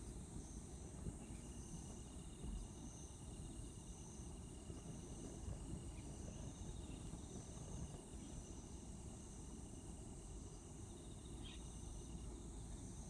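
Crickets chirping in regular repeated pulses, with a steady low rumble underneath and one short tick about eleven seconds in.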